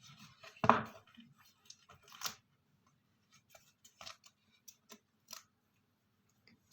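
Paper and plastic sticker packaging being handled and opened: a series of short, sharp snips and crinkles. The loudest comes just under a second in and another a little after two seconds, followed by lighter clicks.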